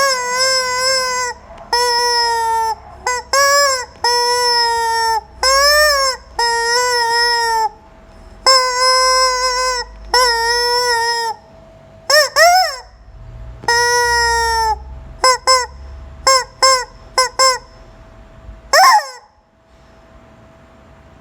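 Rubber chicken squeeze toy squawking as it is squeezed again and again. First comes a run of long honking squawks about a second each, then a handful of short, quick squeaks, with a rising squeal twice along the way.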